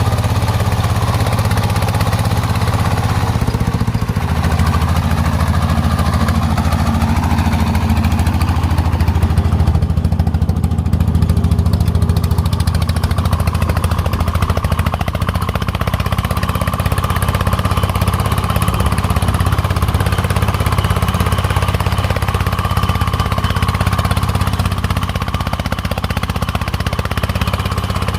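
Single-cylinder diesel engine of a công nông farm truck running steadily, its pitch shifting slightly about four seconds in.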